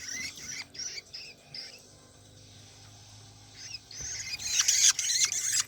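Long-tailed shrike (cendet) nestlings begging for food with rapid, high-pitched chirps and squeaks. They fall quieter for a couple of seconds midway, then break into loud begging again near the end.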